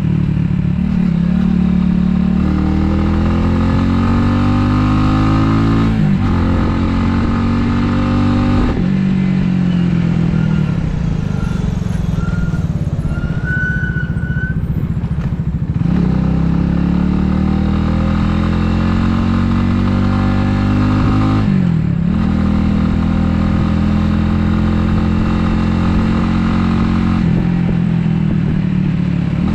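Italika 250Z's single-cylinder engine accelerating through the gears: the revs climb, then drop sharply at each upshift, several times over. In the middle the throttle is closed for a while and the engine note drops back under wind and road noise, before it pulls up through the gears again.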